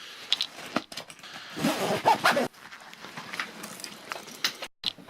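A pet dog making short noises close to the microphone, among clicks and handling noise.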